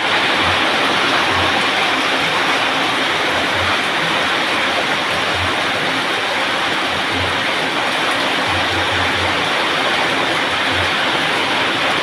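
Heavy rain pouring down in a steady, loud downpour, with occasional faint low thuds.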